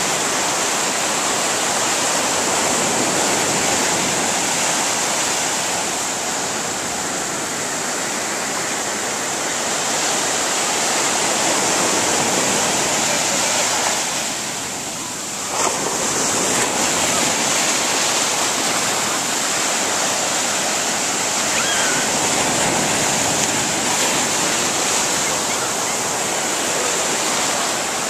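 Ocean surf washing on the shore: a steady rush of breaking waves. It dips briefly about halfway through and comes back with a sharp click.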